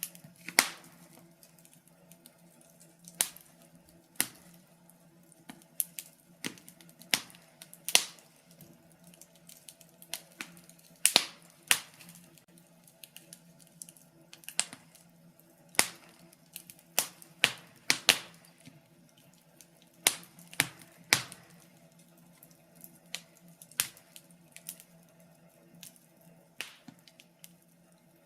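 Wood fire in a fireplace crackling: irregular sharp pops and snaps from the burning logs, some much louder than others, over a faint steady low hum.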